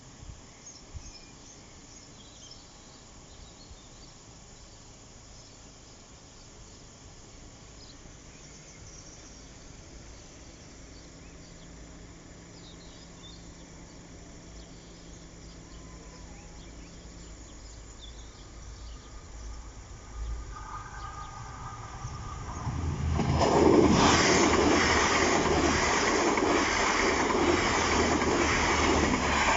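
Two coupled Class 185 three-car diesel multiple units passing over a level crossing. Their rumble rises from about 18 seconds in, and from about 23 seconds the train goes past loudly: wheels on rails over a steady low diesel engine tone.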